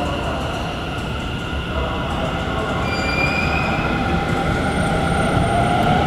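Tokyo Metro 10000-series subway train pulling into an underground station platform, a steady rumble of running and braking. Brief high squeals come in about three seconds in.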